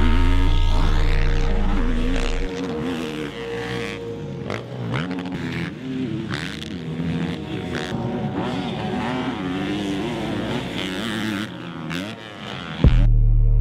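Motocross bikes on the track, their engines revving up and down as the riders work the throttle. Music with a heavy bass is underneath at the start, drops out about two and a half seconds in, and comes back near the end.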